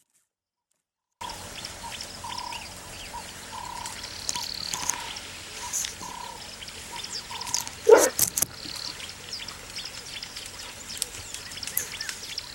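Wild bush ambience with birds calling: a short note repeated roughly every half second to second, scattered high chirps, and one louder, downward-falling call about eight seconds in. The first second is silent.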